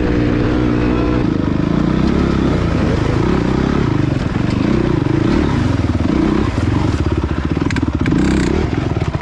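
Honda dirt bike engine running as the bike is ridden over a rough trail, holding a steady pitch for the first second or so, then rising and falling unevenly as the throttle is worked. A few sharp clicks and clatters near the end.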